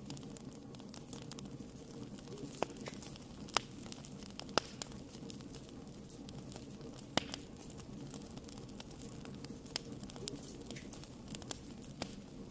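Wood fire burning in a fireplace: a steady low hiss of the flames with irregular sharp crackles and pops, a few louder snaps about three, four and seven seconds in.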